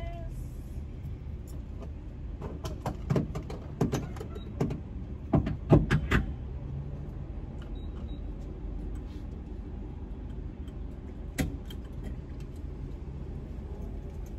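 Car engine idling steadily while the car is being fuelled, with a run of sharp clicks and knocks from about two to six seconds in and one more a little past eleven seconds.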